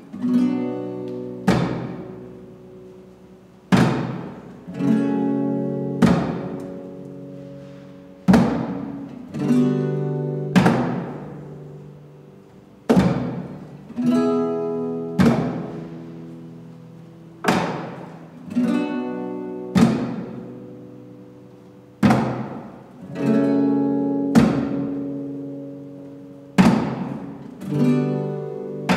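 Guitar playing slow strummed chords. A sharp chord sounds about every second, each left to ring out and fade before the next, in a steady repeating pattern with no singing.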